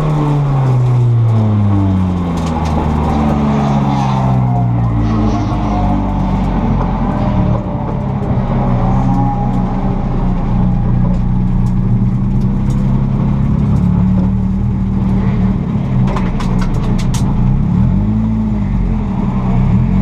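Nissan S13 drift car's engine heard from inside the cabin, its revs falling over the first few seconds as the car comes off the run. It then runs low and steady at slow driving speed, with a brief rev blip near the end and a few sharp clicks shortly before it.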